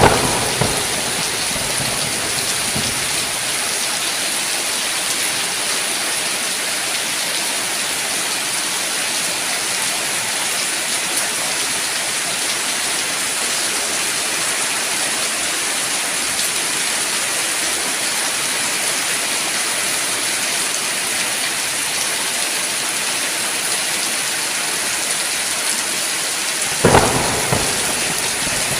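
Steady heavy rain hissing, with two short cracks of thunder: one at the very start and one near the end, each rumbling off briefly.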